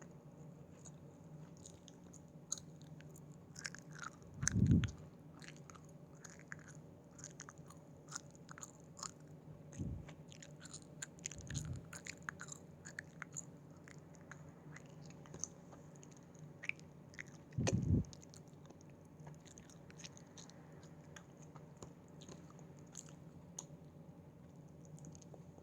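Close-miked chewing of Haribo gummy candy: many small, irregular mouth clicks as the gummies are bitten and chewed. A few dull low thumps break in, loudest about four and a half seconds in and again near eighteen seconds.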